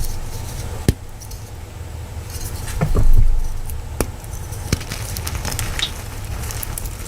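Chalk crunching and crumbling as it is crushed, with a few separate sharp cracks and a louder burst of crackling about three seconds in, over a steady low rumble.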